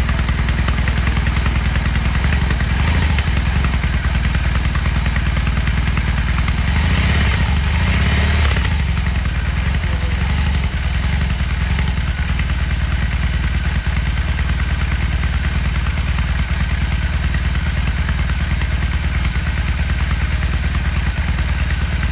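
Motorcycle engine running steadily with an even low pulse, with a brief rise in revs about seven to eight seconds in.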